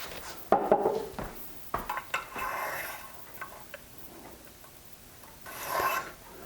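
Small metal engine parts clinking and rubbing as they are handled, with a few sharp knocks and clicks near the start, then quieter fiddling.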